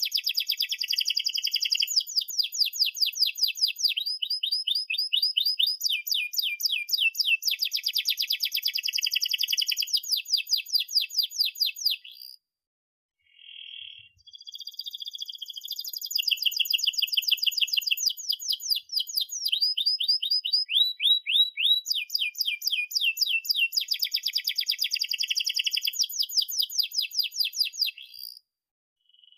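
Domestic canary singing long, rapid rolling trills of quickly repeated chirps. The song is interrupted by one short pause about twelve seconds in, then picks up again.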